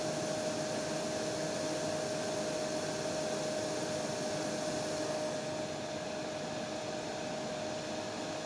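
Hair dryer running steadily: an even airy rush with a steady motor whine, the hiss dropping slightly about five seconds in.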